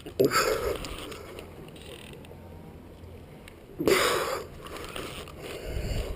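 Fishing reel working under the load of a hooked Mekong catfish, in two short loud bursts: one just after the start and one about four seconds in.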